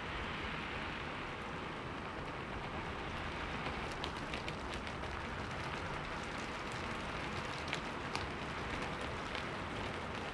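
Steady rain on a window pane: a constant hiss with scattered sharp drop ticks against the glass, a few louder ones midway and again later.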